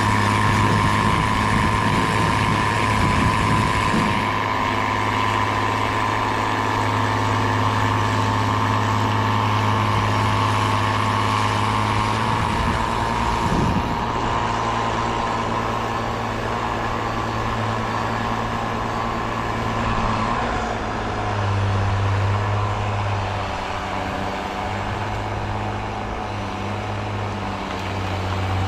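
A heavy diesel engine running steadily, with a constant whine alongside it. About two-thirds of the way through, the engine's low note begins to rise and fall in level.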